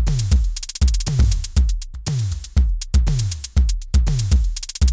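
Programmed drum-machine beat from Soundtrap playing back: deep electronic bass drum hits that drop in pitch, under fast high ticks that bunch into quick 32nd-note runs.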